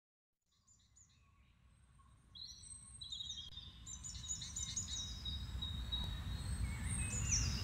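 Small songbirds singing, with repeated high chirping phrases, fading in from silence over a low rumble about two seconds in and growing louder.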